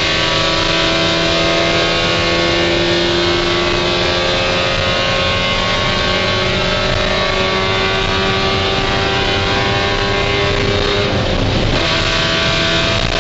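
Spec Miata race car's four-cylinder engine heard from inside the cabin, its note climbing slowly and steadily in pitch for most of the stretch, then breaking and dropping near the end.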